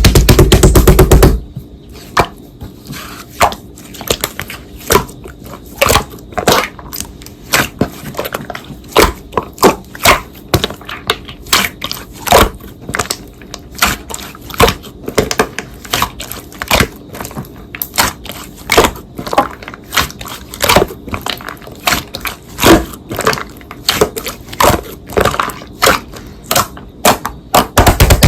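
Slime being pressed, folded and stretched by hand, giving irregular sticky clicks and air-bubble pops, about two or three a second. A loud burst of noise fills the first second or so.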